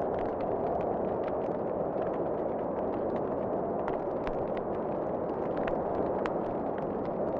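Wood fire crackling in a fireplace, with sharp scattered pops several times a second over a steady low rush.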